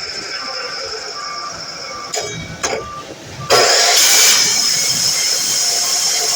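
DeWalt miter saw at work: a steady motor sound, two sharp knocks a little after two seconds in, then a sudden, much louder rush about halfway through that holds steady as the blade cuts through the material.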